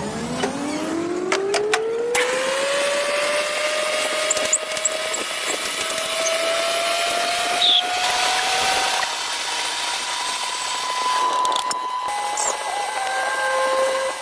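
A power tool's electric motor spinning up, its pitch rising over the first three seconds or so, then running at a nearly steady speed.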